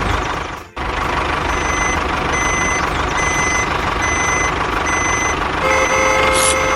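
Reversing alarm beeping at a steady pace, about one beep a second, over the running noise of a small vehicle. Near the end the beeps give way to a steady held tone with several pitches.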